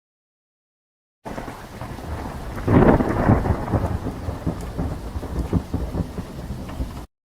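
Thunderstorm sound effect: a steady rush of rain-like noise starts about a second in, a loud thunder roll swells around three seconds in, and the clip cuts off abruptly near the end.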